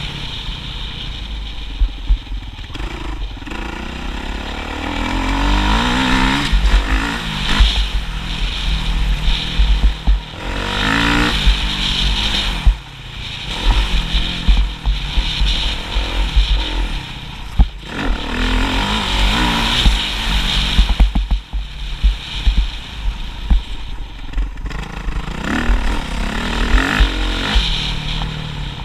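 Motocross bike engine revving up and down again and again as it is ridden, its pitch climbing and dropping every few seconds, over a steady deep rumble.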